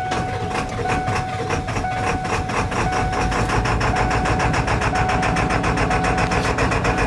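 Ford Power Stroke diesel cold-starting: it cranks and catches, and the regular firing knocks quicken as it comes up to a rough run. The mechanic thinks it is not yet firing on all cylinders.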